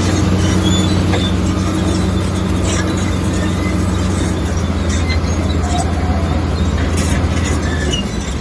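Komatsu bulldozer's diesel engine running steadily under load, with short squeaks and clicks from the steel tracks; the engine eases slightly near the end.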